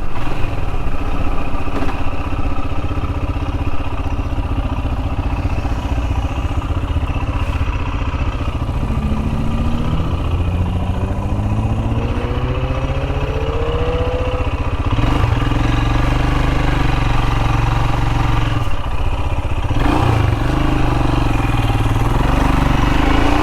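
Royal Enfield Himalayan's single-cylinder engine running on the move. About halfway through its pitch rises as it accelerates, then settles to a steady, heavier note.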